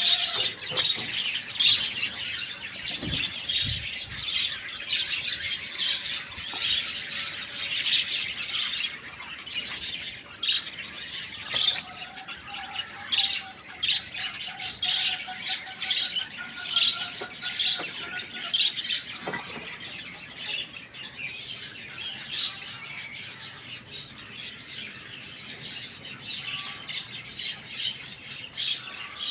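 Many small birds chirping at once in a dense, continuous high-pitched chatter of short overlapping calls.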